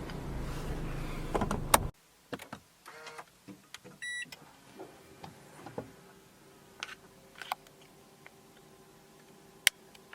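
Toyota car engine running and cutting off suddenly about two seconds in, followed by scattered small clicks and a short electronic beep about four seconds in.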